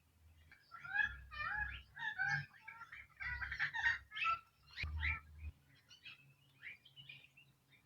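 Birds calling: a quick run of short chirping notes that thins out after about five seconds.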